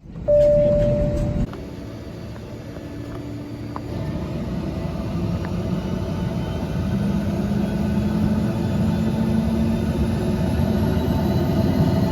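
A loud steady tone lasting about a second at the start, then the cabin sound of a DHC-6-300 Twin Otter's twin Pratt & Whitney PT6A turboprop engines, a dense rumble with a steady hum that grows gradually louder.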